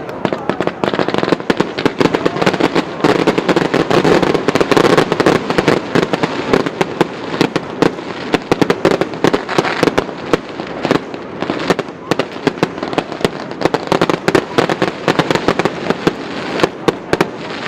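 Fireworks going off in a rapid, continuous crackle of many small sharp bangs, loudest about three to five seconds in.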